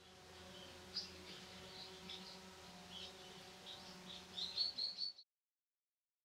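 Faint birdsong: short high chirps with a quick run of louder chirps near the end, over a faint steady hum. The sound cuts off abruptly about five seconds in.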